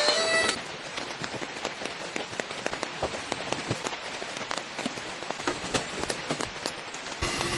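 Rain falling on a surface: a dense, uneven patter of drops over a steady hiss. A louder sound with steady ringing tones fades out about half a second in, and another louder sound with a steady low tone begins near the end.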